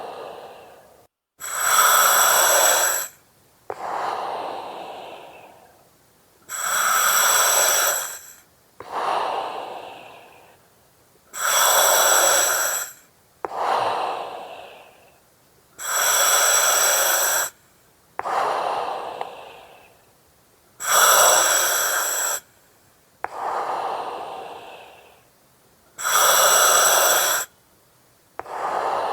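Slow, steady breathing through an oxygen mask, about six breaths. Each one is a loud hiss with a whistling edge from the mask's regulator, lasting about a second and a half, followed by a softer breath that fades out. The cycle repeats about every five seconds.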